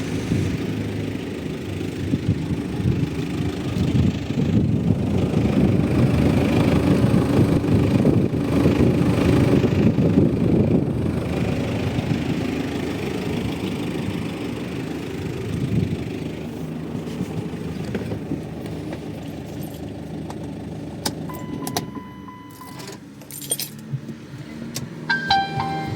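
Chrysler Sebring's Volkswagen 2.0 TDI diesel engine running, louder for several seconds in the first half. Near the end the engine sound drops away and keys jingle, with a few clicks and short tones.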